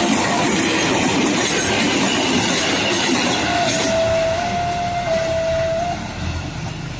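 KRL commuter electric train running past close by with steady wheel-on-rail noise. About three and a half seconds in, a train horn sounds one held note for about two seconds, shifting slightly in pitch, as the passing noise fades.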